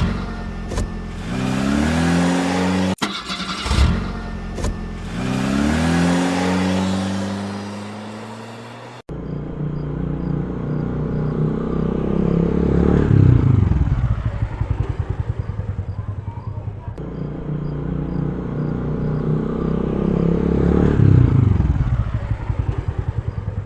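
Vehicle engine sounds: an engine revving up twice with a rising pitch, then cutting off suddenly. A deeper engine then runs with a fast rumbling pulse, swelling and dropping in pitch twice.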